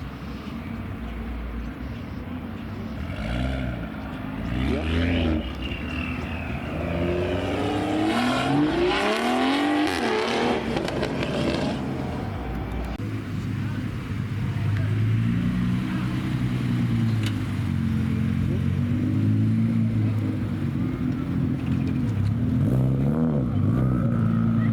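Car engine revving hard, its pitch climbing and falling between about four and eleven seconds in, then a deeper engine running steadily, with another short rev near the end.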